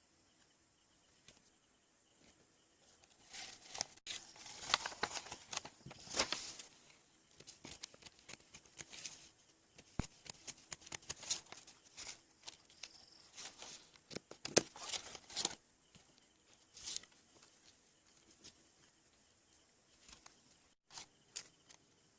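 Irregular scratching, rustling and sharp small clicks of hand work on small parts, busiest in the middle and sparse near the start and end.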